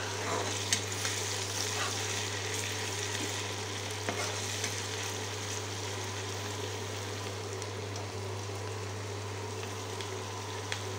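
Chopped onions and green chillies sizzling in hot oil in a wok as they brown, stirred with a metal spatula that scrapes the pan a few times. A steady low hum runs underneath.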